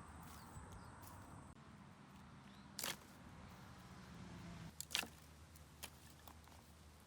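Faint steady background with two sharp knocks about two seconds apart and a few softer taps.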